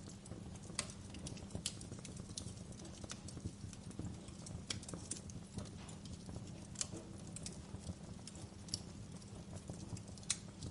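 Fire crackling, with irregular sharp pops and snaps over a steady low rumble of flames; one of the loudest pops comes near the end.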